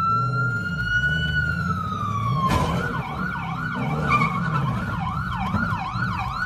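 Police car siren holding a long, slow wail, then switching to a fast yelp that rises and falls about twice a second, about two and a half seconds in.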